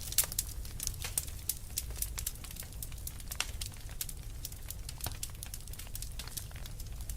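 Wood fire crackling: irregular sharp snaps and pops, a few louder ones near the start, over a steady low rumble.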